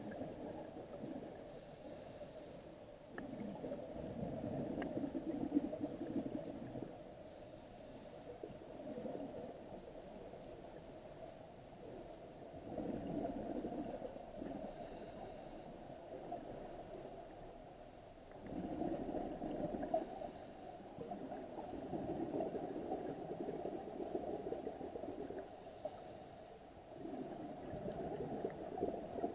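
Scuba regulator breathing underwater: short hissing inhalations roughly every five to six seconds, each followed by a longer rumbling rush of exhaled bubbles.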